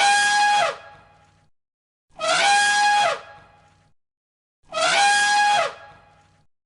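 An animal call repeated three times, about every two and a half seconds, each call the same: a quick rise, a steady high note held for about half a second, then a drop.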